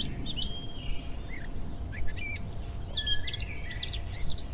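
Wild birds singing and calling, several at once: a mix of short chirps, trills and whistled notes, over a low steady background rumble.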